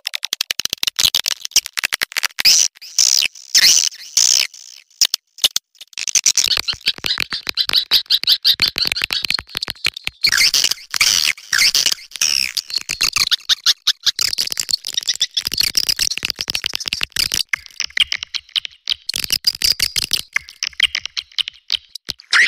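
Swiftlets calling in a dense chorus of rapid clicks and chittering twitters. It is a swiftlet mating-call track of the kind played to call swiftlets in.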